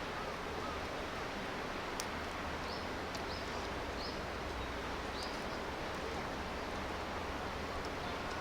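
Steady rush of river water, with a few sharp crackles from a wood campfire and a short run of high bird chirps between about three and five seconds in.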